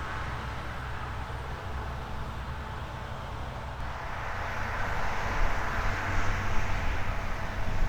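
Heavy harvest machinery running steadily, a low engine rumble under a broad rushing hiss, growing louder from about halfway through as the machine comes closer.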